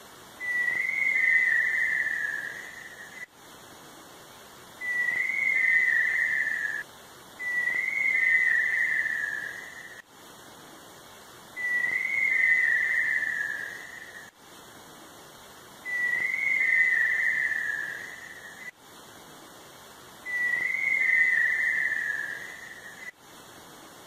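A bird's long whistled call, given six times, each whistle about two seconds long with a short rise and then a falling tail.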